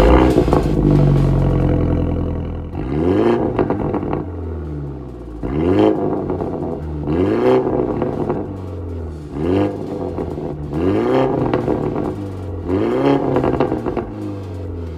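BMW 120i's B48 turbocharged four-cylinder revved repeatedly through an MS-R valved catback exhaust. A loud rev comes first, then about seven quick throttle blips, one every one and a half to two seconds, each rising and falling in pitch.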